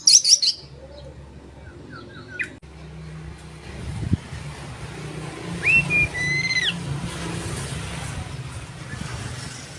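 Oriental magpie-robin (kacer) song: a loud burst of quick chirps at the start, then one clear whistled phrase that rises, holds and falls about six seconds in. A steady low rumble runs beneath from about a third of the way in.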